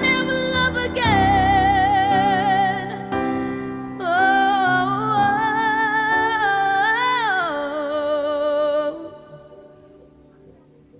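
A woman singing a slow ballad in long held notes with vibrato over soft instrumental accompaniment. The music fades down about nine seconds in.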